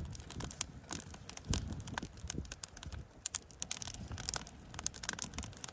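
Wood campfire crackling, with irregular sharp snaps and pops over a low rumble.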